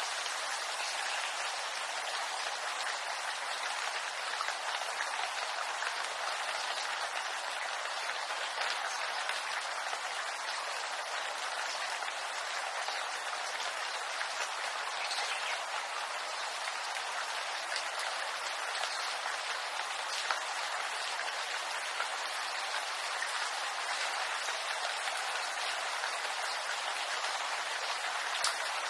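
Steady rain falling on bamboo leaves, an even patter with a few louder single drops standing out.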